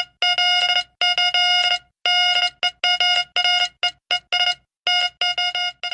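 Mid-pitched buzzy electronic beep keyed on and off in long and short pulses like Morse code: a news-flash signal sound effect announcing a special bulletin that interrupts the program. The beeps are longer at first and turn into quicker, shorter pips near the end.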